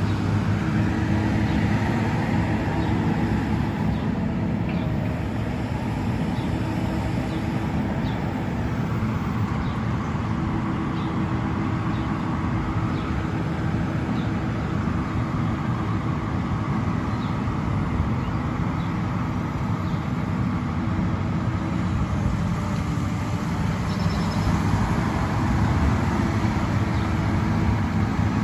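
Heavy machinery's diesel engine running steadily with a low, even drone, the sound of pond dredging under way. Faint short chirps recur over it.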